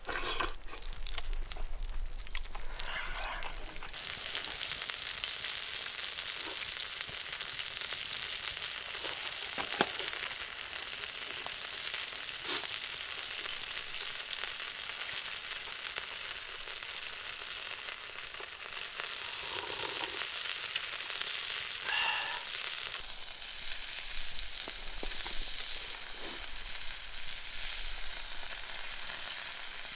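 Horumon (offal) frying in a hot pan, a steady sizzle with scattered pops that sets in about four seconds in.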